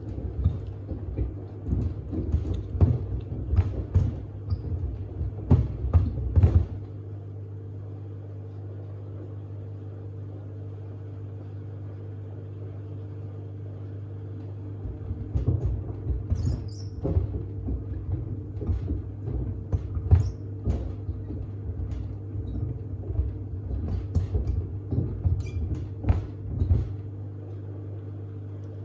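Samsung WD70T4047CE front-loading washer-dryer in its wash cycle with two pairs of sneakers inside. The drum turns and the shoes knock against it for about seven seconds, then the drum rests for several seconds with only a steady hum, then turns and knocks again until near the end.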